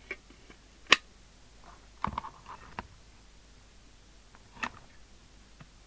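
A few sharp clicks and knocks from hard objects being handled, spaced a second or more apart. The loudest single click comes about a second in, and a small cluster with a duller knock follows about two seconds in.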